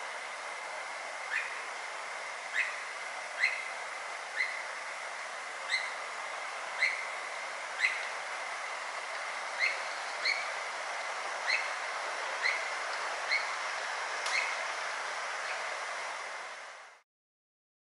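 Steady rain falling, an even hiss, with a faint steady high tone under it. Short high chirp-like notes stand out at irregular intervals, roughly once a second, and the sound fades out near the end.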